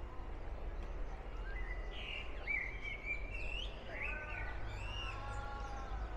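A bird singing a series of sliding, chirping whistled notes, starting about two seconds in, over a steady low background rumble.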